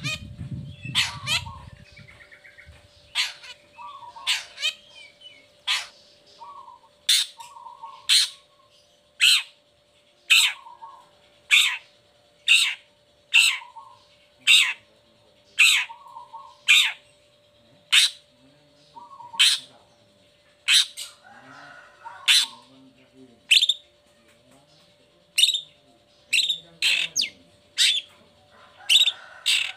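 Long-tailed shrike (cendet) calling: a steady run of short, harsh, rasping calls about one a second, coming quicker in pairs near the end, over a faint steady hum.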